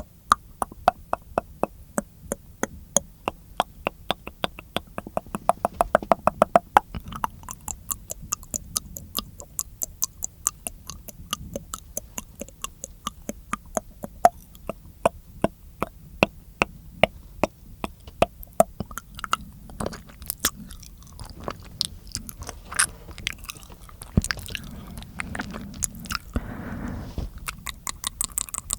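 Close-miked ASMR mouth sounds: quick wet clicks and smacks of tongue and lips, several a second, with a soft low hum and fuller, chewing-like sounds around the last few seconds.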